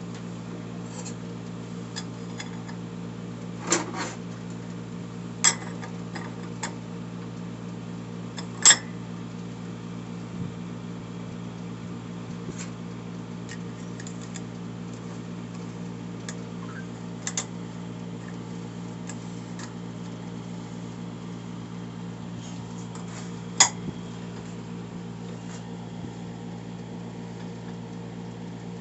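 Metal TH350 clutch plates clinking sharply now and then as they are handled and stacked, about half a dozen times, over a steady electrical hum.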